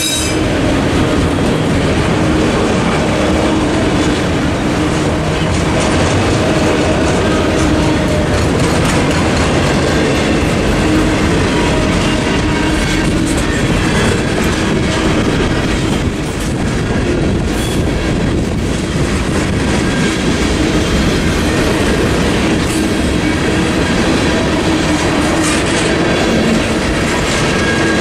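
Freight cars of a passing mixed freight train rolling by close at steady speed: a continuous rumble with wheels clattering over the rails.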